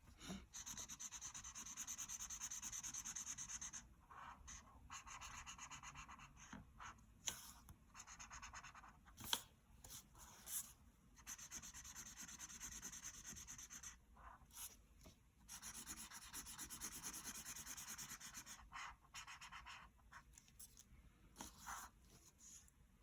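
Colouring in on paper: the tip of a colouring tool rubbing across the sheet in runs of quick strokes, each run lasting a second to a few seconds, with short pauses and light taps between.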